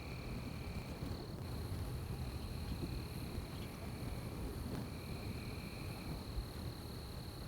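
Night insect chorus: a steady high trill of crickets, with a second, lower trill that comes and goes every second or two, over a low steady rumble.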